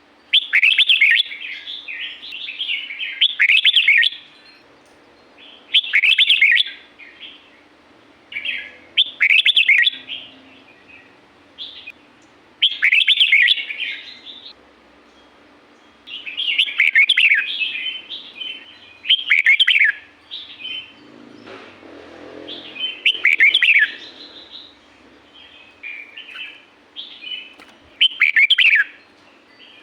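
Red-whiskered bulbul singing: short, bubbly warbled phrases repeated every few seconds with brief pauses between them.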